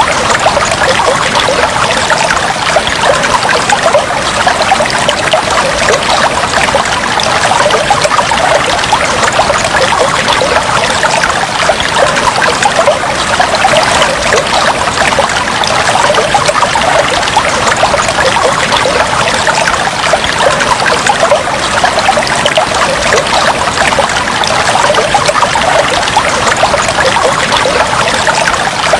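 Fish tank water trickling steadily, a dense, even patter of tiny splashes.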